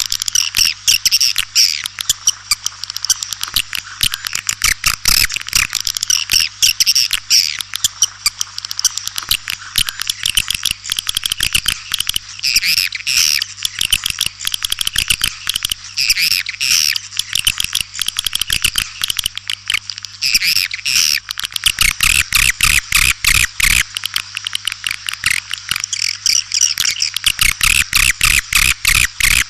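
White-nest swiftlets in a lure-sound recording: a dense, unbroken chatter of many birds' rapid clicking twitters, with a steady low hum underneath.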